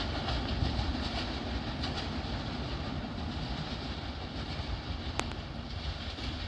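Metre-gauge train running on the rails: a steady rumble of wheels on track that slowly grows quieter, with one sharp click about five seconds in.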